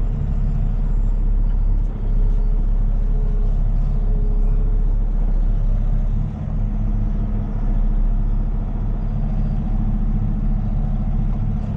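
Heavy tow truck's engine running steadily with an even low drone, not revving.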